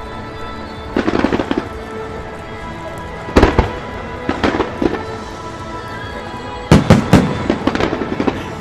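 Fireworks going off in four clusters of rapid, sharp bangs, the loudest cluster near the end, over steady background music.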